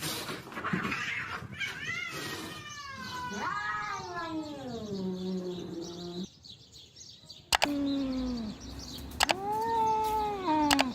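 Domestic cats yowling at each other in a fight: long, wavering howls that rise and fall in pitch, with a hissing burst at the start. After a short lull about six seconds in, sharp clicks and more drawn-out yowls follow.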